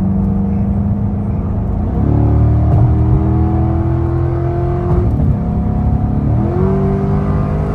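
Car engine pulling the car along, its note stepping up about two seconds in and climbing as it accelerates, dropping near five seconds as at a gear change, then rising again.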